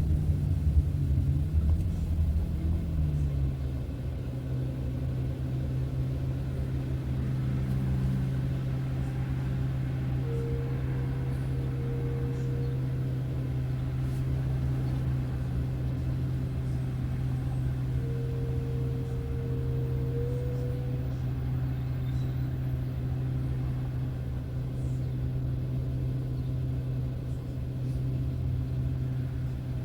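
A car driving, with steady engine and road noise. A low hum drops in pitch over the first few seconds, then holds steady. A faint higher tone comes and goes twice.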